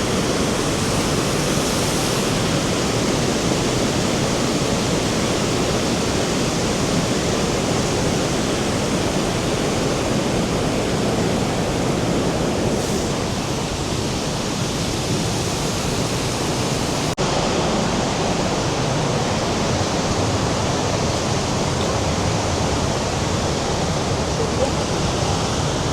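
Loud, steady rushing of the Rhine Falls' water, an even noise with a very brief break about two-thirds of the way through.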